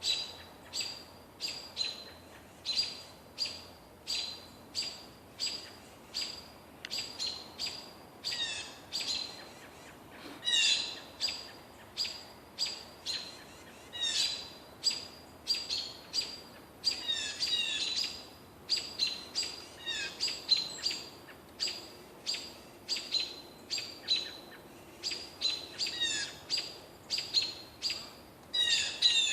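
Birds chirping: a steady stream of short, sharp calls, one or two a second, some ending in quick downward slurs, overlapping as if from several birds.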